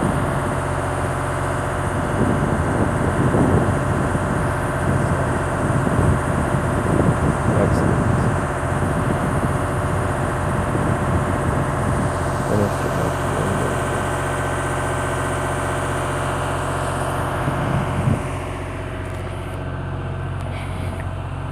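A motor engine idling with a steady low hum; it drops in level about eighteen seconds in.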